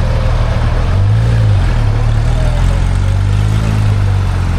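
A car engine idling with a steady low hum. Its tone swells briefly about a second in and again for a couple of seconds after that.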